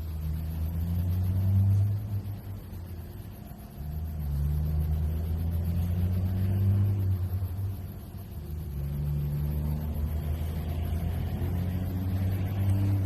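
Low engine rumble that swells and fades three times, each rise lasting a few seconds.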